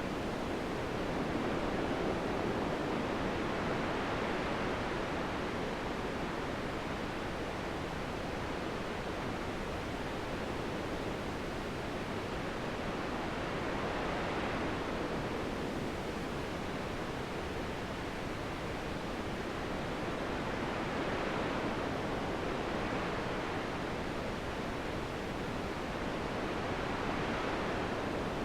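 Wind blowing, a steady soft rushing that swells and eases in slow gusts.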